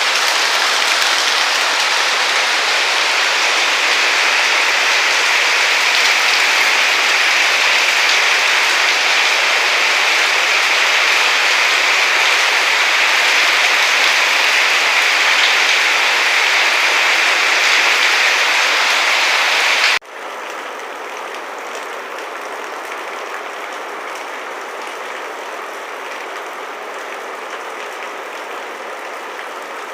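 Heavy rain pouring down steadily. About two-thirds of the way in it cuts abruptly to a quieter, steady rain.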